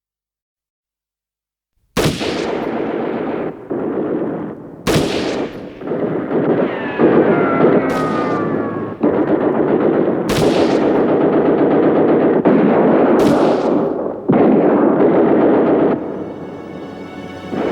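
Battle sound effect: continuous gunfire with about five sharp, loud blasts and a falling tone in the middle. It starts abruptly after two seconds of silence and eases off near the end as music comes in.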